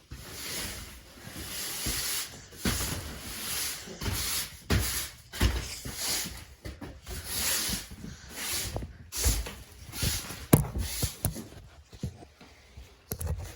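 Breathing and rustling close to a phone's microphone, rising and falling about once a second, with low knocks and a few sharp clicks of handling and movement.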